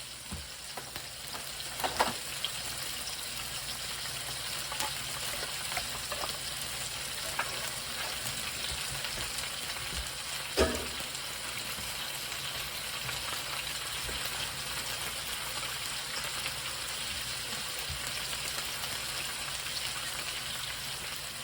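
Food frying in a pan, a steady sizzle, with a couple of sharp clinks: one about two seconds in and one about halfway through.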